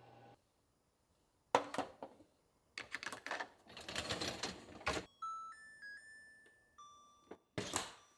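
Knocks and rustling from handling things in a kitchen: a sharp knock, then about two seconds of crinkling, then a few short steady tones stepping up and down in pitch, and another knock near the end.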